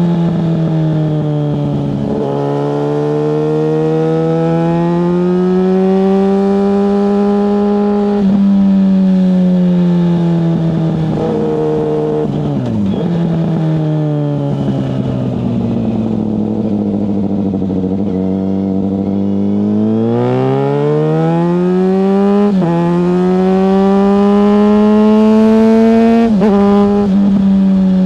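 Yamaha FZ6 S 600cc inline-four motorcycle engine under way: revs climb in a gear and break off sharply at several upshifts, sink low in the middle as the bike slows on a closed throttle, then build again through two more gear changes near the end.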